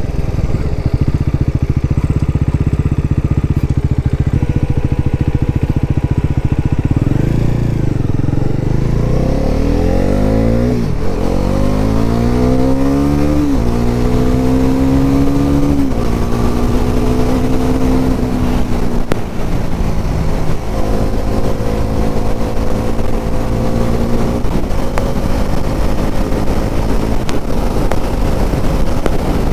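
Bajaj Pulsar NS400Z's 373 cc single-cylinder engine pulling hard: steady at first, then from about 7 s in the revs climb and drop with each upshift, several times over, before it settles into a steady, slowly rising run at speed.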